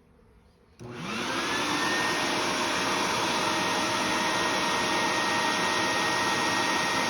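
Vacuum motor switched on about a second in, whining up to speed and then running steadily. It is a bee vacuum sucking the bees out of the chimney into a bucket.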